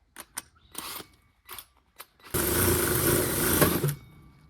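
Drill with a 3-inch hole saw run for about a second and a half against the sheet metal behind a car's rear bumper, after a few light clicks and knocks.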